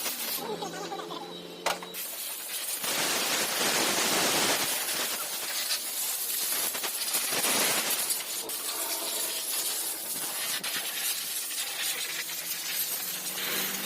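High-pressure spray hissing during a motorcycle wash, loudest for several seconds a few seconds in. A steady machine hum sounds briefly near the start and again near the end.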